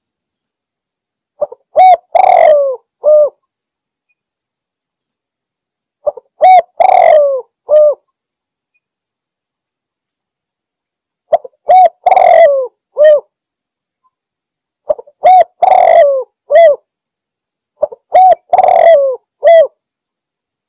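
Spotted dove (tekukur) cooing in a territorial call to a rival: five phrases a few seconds apart, each of three or four coos with a longer falling coo in the middle.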